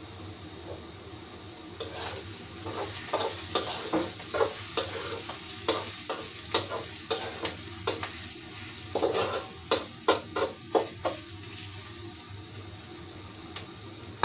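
Onions frying in oil in a pan while a spatula stirs them, with a quick run of clicks and scrapes against the pan from about two seconds in until about eleven seconds in. A low steady hum sits under it.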